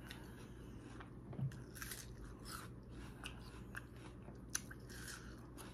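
Biting and chewing a crisp, watery fruit close to the microphone: faint, irregular crunches and wet mouth clicks.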